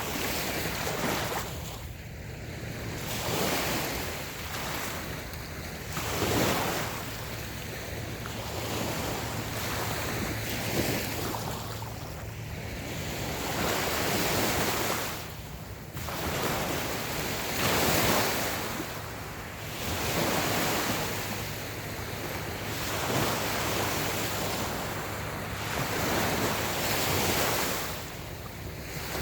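Small waves washing in on a sandy beach, each swell of surf rising and falling every couple of seconds, with some wind on the microphone.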